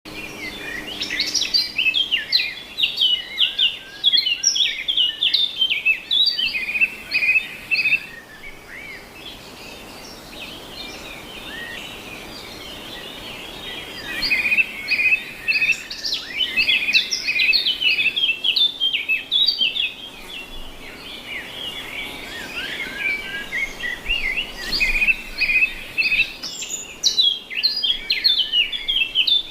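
Many small birds chirping and chattering together in a dense, overlapping chorus, with a quieter spell about a third of the way in before the chirping picks up again.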